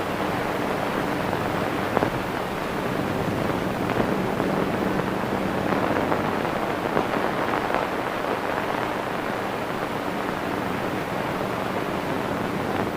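Steady hiss and low hum of an early-1930s film soundtrack running with no dialogue, with a few faint clicks.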